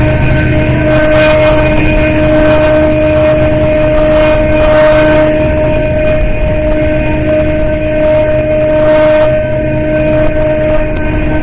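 Double-stack container freight train rolling past at close range: a loud, steady rumble of wheels on rail, with a steady high-pitched tone held over it throughout.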